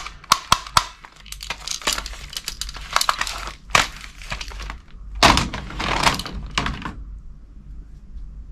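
Handling noise: a quick run of sharp clicks and knocks, then about two seconds of rustling and crinkling that stops shortly before the end.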